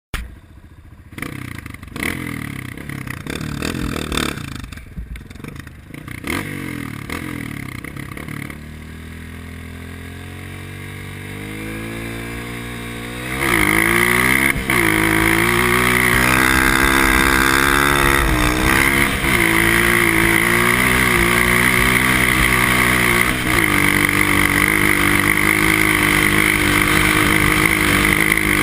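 Honda CRF230 dirt bike's single-cylinder four-stroke engine. After a few seconds of uneven sound, the revs climb slowly. About halfway through it goes much louder and is held at high revs, with a couple of brief dips.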